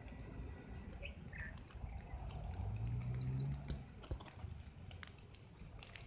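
A small bird gives a quick run of about five short, high chirps around the middle, over a steady low outdoor rumble with a brief low hum and scattered faint clicks.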